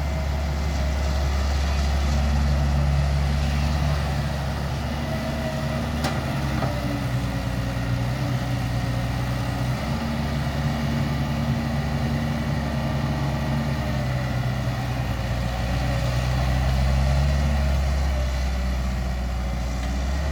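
Heavy diesel machinery running steadily: a low engine drone whose note steps up and down several times as the load on the engine changes.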